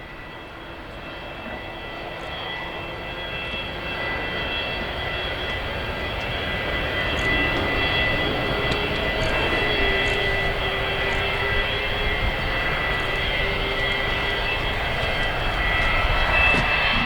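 Boeing 787-9 Dreamliner's twin Rolls-Royce Trent 1000 turbofans in a low display pass. The sound grows louder over the first several seconds, then holds as a steady rumble with a high, even fan whine over it.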